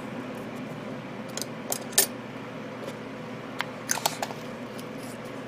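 Light clicks and taps of small paint bottles and a mixing cup being handled during paint mixing, in two short clusters, the sharpest click about two seconds in, over a steady low hum.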